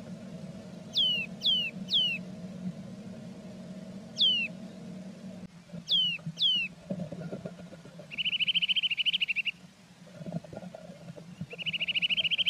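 Blue tit calling: several short, quick downward-sliding notes, then two rapid trills, one about eight seconds in and one near the end. Brief rustling of nest material is heard between them over a steady low hum.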